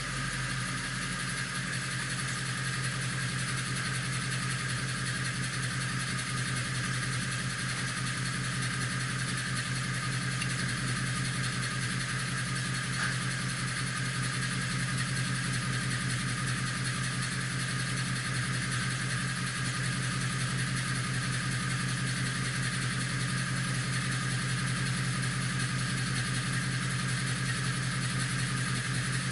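Ford Mustang GT's 5.0-litre V8 idling steadily, at an even pitch with no revs.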